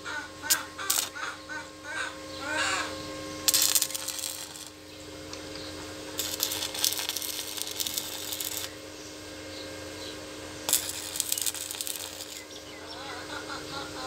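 Birds calling in quick series of short notes, with a steady hum behind. Three bursts of crackling hiss, each lasting one to two and a half seconds, come through the middle.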